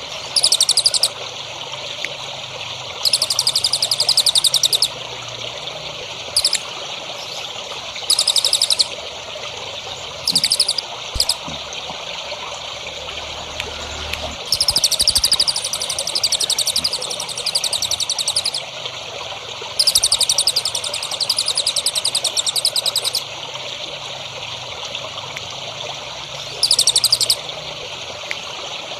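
A small songbird singing very fast, high trills in repeated bursts of about half a second to four seconds, with short gaps between them. Under it runs a steady trickle of water.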